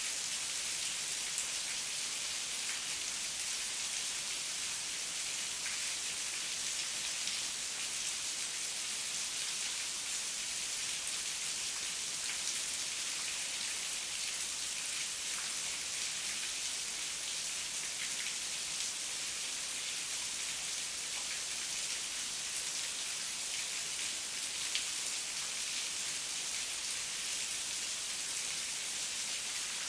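Heavy rain falling steadily, an even hiss made of many close, fine drop-taps, with no thunder.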